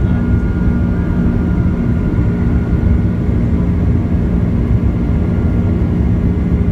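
Jet airliner engines at takeoff power heard from inside the cabin: a loud, steady rumble with a constant low hum and a faint high whine.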